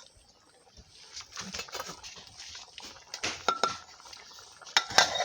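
Cooking pot and utensils clinking and knocking, with a scrape or two. The sounds are sparse at first and grow louder, and the strongest strikes come about three and a half and five seconds in, one with a brief metallic ring.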